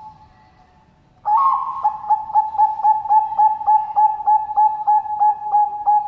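Zebra dove (Bangkok perkutut) cooing: a faint coo, then about a second in a loud, rapid, even series of ringing coo notes, about three to four a second.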